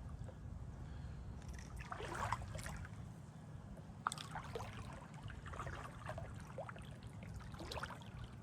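Paddle strokes in water: a splash and trickle roughly every two seconds as the blade dips and drips, with one sharp knock about four seconds in, over a steady low rumble.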